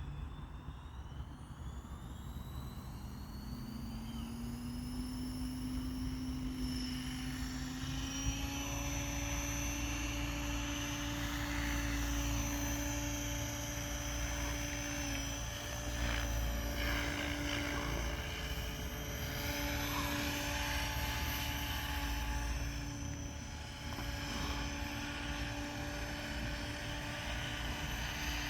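Electric SAB Goblin Raw 700 model helicopter: a motor and rotor whine that rises in pitch over the first eight seconds or so as the head spools up, then holds steady with slight wavering, over a low rumble of rotor wash.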